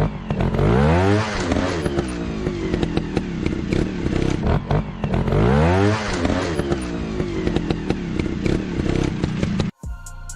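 Motorcycle engine running with two sharp revs, each rising in pitch and falling back. Near the end it cuts off suddenly, and music with a drum beat starts.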